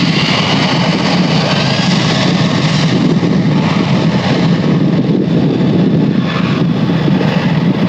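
Jet airliner engines running loud and steady: a low drone with an even hiss over it.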